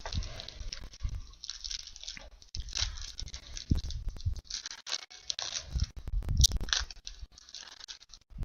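Crinkling and rustling of trading card pack packaging being opened and handled, in irregular bursts with some soft thumps.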